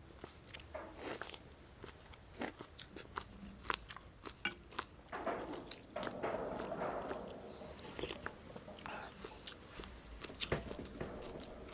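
Close-miked mukbang eating of bún bò noodle soup: chewing and mouth sounds with many small sharp clicks, and a denser, longer stretch of eating noise about five to eight seconds in.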